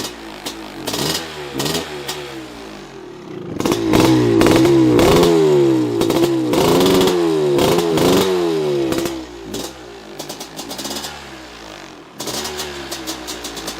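1993 Maico 500 two-stroke single-cylinder engine running: a rapid, popping idle, then blipped up and down in several quick revs about four seconds in, dropping back to the idle about nine seconds in.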